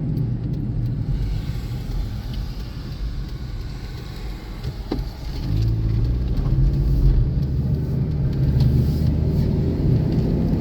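Road noise and engine hum of a car driving on a highway, heard from inside the car; the hum gets louder and steadier a little past halfway through.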